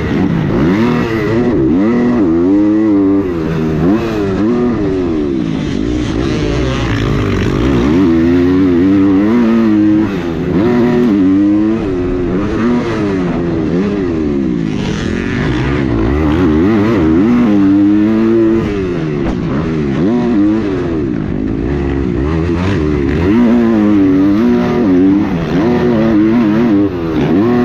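Dirt bike engine ridden hard, its pitch climbing through the revs and dropping again over and over as the rider works the throttle and gears.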